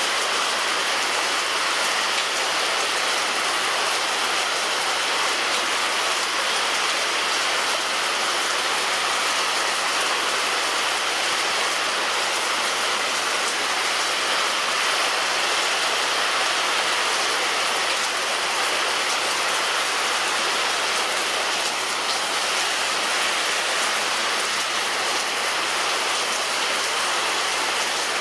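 Rain falling steadily on a roof: an even, unbroken hiss of drops with no lulls or separate hits.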